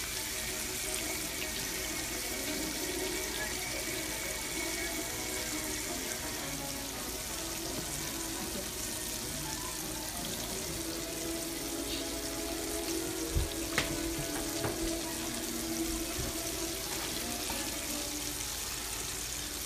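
Battered catfish fillets frying in hot oil in a cast-iron skillet: a steady sizzle. Two sharp knocks come about two-thirds of the way through.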